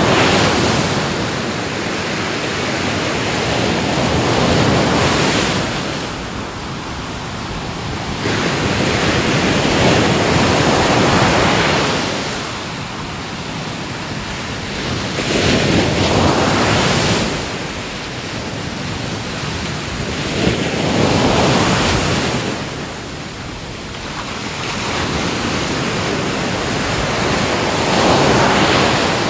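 Ocean waves breaking on the shore in repeated surges, each swelling and washing back every four to six seconds.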